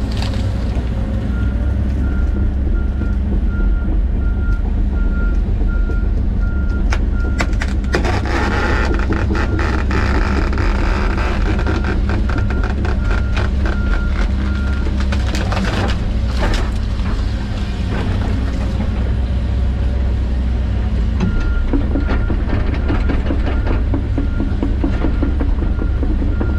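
John Deere 130G excavator's diesel engine running under load as it grubs out trees and brush, with a steady beeping alarm repeating at one pitch through most of it. About seven seconds in, a long run of cracking and crunching starts as wood and roots break, lasting about ten seconds.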